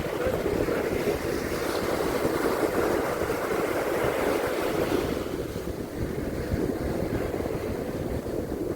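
Sea surf washing onto a beach: a continuous rushing of waves that swells in the first few seconds and eases after about five seconds.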